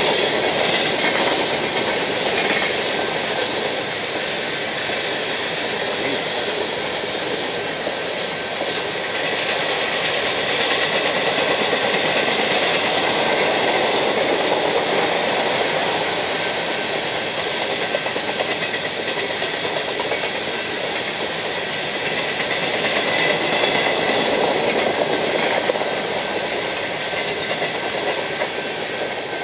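Freight train of covered hopper cars rolling steadily past: the continuous rumble and clickety-clack of steel wheels over the rail joints.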